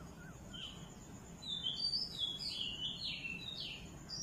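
Birds chirping: a run of short, quick, falling chirps starting about a second and a half in, over a low steady background hiss.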